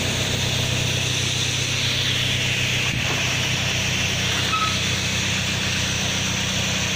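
Tractor engine running steadily with a steady hiss of liquid spraying from a boom sprayer's nozzles over it.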